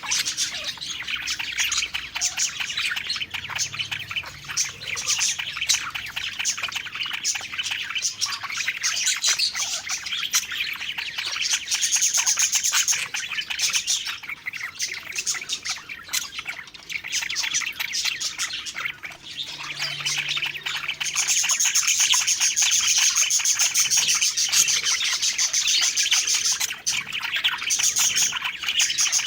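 A group of budgerigars (parakeets) chirping and warbling in a dense, continuous chatter, swelling louder briefly midway and again for the last third.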